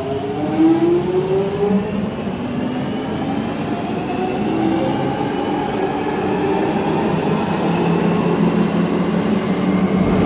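Alstom 1996 Tube Stock Underground train heard from on board. The traction motors whine in several tones that rise in pitch as the train accelerates, then climb more slowly and level off, over the steady rumble of the wheels on the track.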